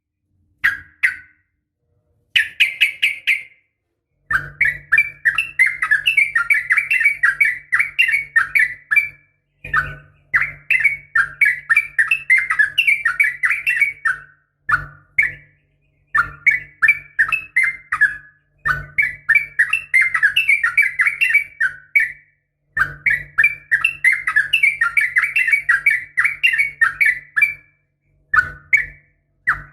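Yellow-vented bulbul (trucukan) giving long runs of rapid chattering song, in phrases of about four to five seconds broken by short pauses. A low hum switches on and off with each phrase.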